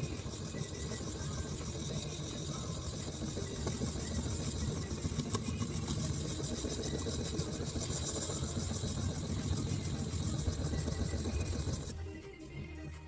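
A small electric power tool running steadily, stopping about twelve seconds in.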